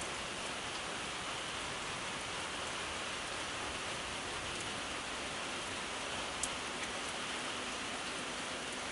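Steady rain falling, an even hiss, with a single sharp tick about six and a half seconds in.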